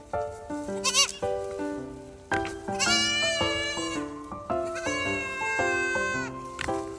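A young goat kid bleating: a short wavering bleat about a second in, then a long, drawn-out quavering bleat from about three seconds in to past six seconds, over background music.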